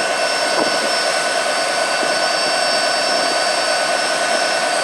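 Diesel freight locomotives working under heavy power: a steady, loud engine noise with high steady whines over it. The wheels are slipping on rain-wet rail.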